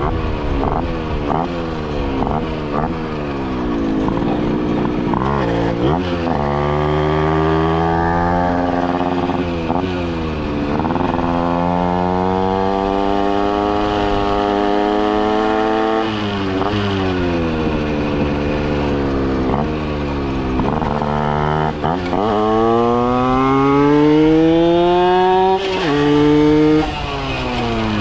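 Two-stroke moped engine, an 80cc Minarelli AM6 with a Kreidler exhaust, revving hard. In the first few seconds it gives quick short rises in revs. After that come several long climbs in pitch of a few seconds each, each breaking off and dropping back before the next, as at gear changes.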